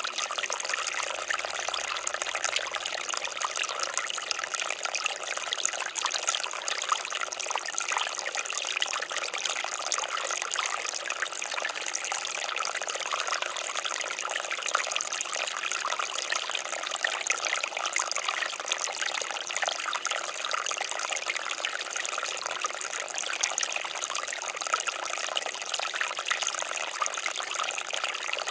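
Water fountain running steadily, water splashing and trickling continuously with many fine droplet splashes.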